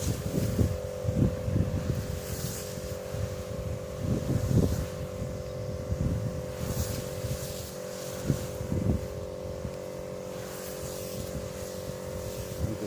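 Wind buffeting the microphone in irregular gusts, over a steady, even drone from a running small engine.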